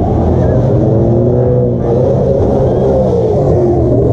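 Car engine running, revved so that its pitch rises and falls over a second or so.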